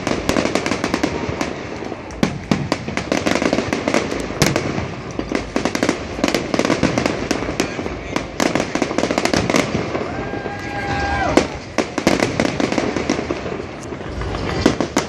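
Fireworks display with a dense run of crackling pops and bangs throughout. About two-thirds of the way through, a steady whistle-like tone sounds for about a second and a half, then drops away.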